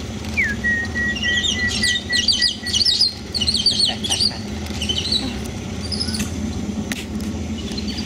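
Birds calling: one long whistle held on a single note after a short downward slide, overlapped by quick runs of high chirps, over a steady low hum.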